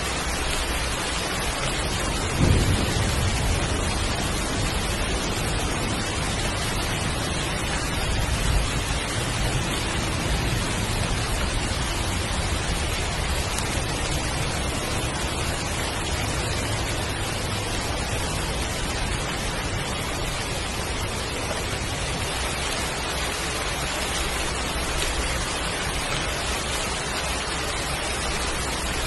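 Heavy rain falling steadily. A low rumble of thunder comes about two and a half seconds in, and a weaker one around eight seconds.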